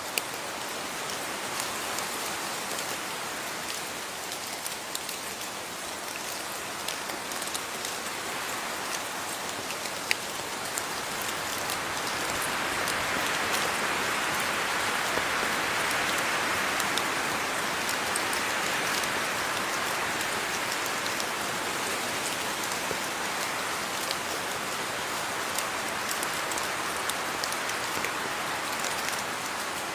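Steady rainfall with scattered individual drops tapping close by, swelling a little heavier partway through.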